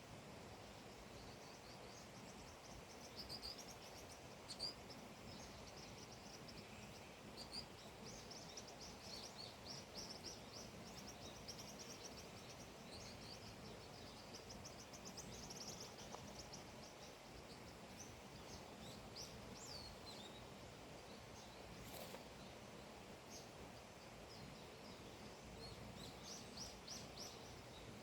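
Songbirds chirping faintly, with short high calls and quick trills that come thickest in the middle, over a soft steady outdoor hiss.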